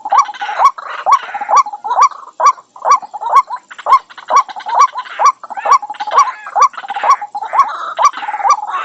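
White-breasted waterhen calling in a harsh, croaking chorus. Its repeated kuwak notes come about twice a second, each a short hooked note.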